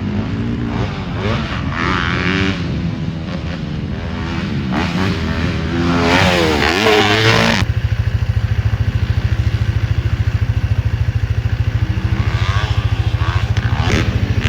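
Off-road vehicle engine running, its pitch rising and falling as it is ridden. After an abrupt change about two-thirds of the way through, an engine runs at a steady, evenly pulsing pace.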